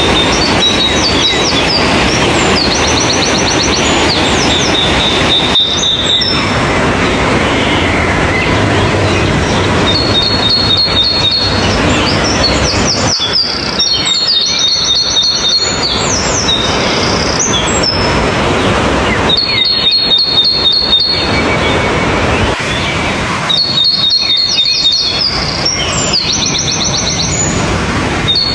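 A songbird sings a short, rapid trilling phrase again and again, every few seconds, over a loud, steady rushing noise.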